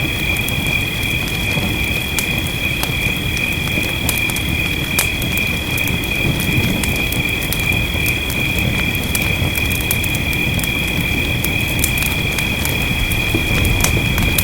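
Fireplace crackling with scattered sharp pops over a steady low rush of rain, with a steady high-pitched whine above it.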